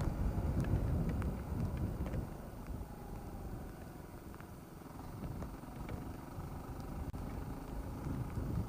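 Yamaha WR250R's 250 cc single-cylinder four-stroke engine running under way, mixed with wind noise; it eases off for a few seconds in the middle and picks up again near the end.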